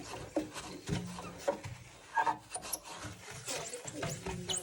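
Paper towel rubbing and wiping across the glass door of a Handöl wood stove in irregular strokes, with small scrapes and brief squeaks: clean paper wiping off the wet ash paste used to clear the soot.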